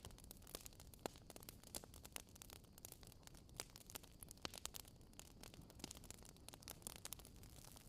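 Wood fire crackling faintly: irregular small pops and snaps over a low hiss.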